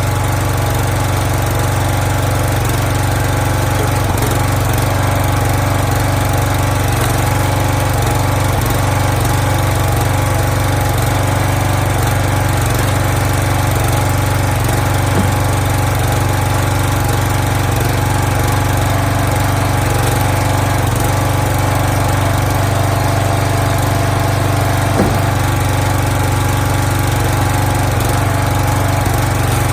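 Small pull-start gasoline engine of a firewood log splitter running steadily, with a few faint knocks.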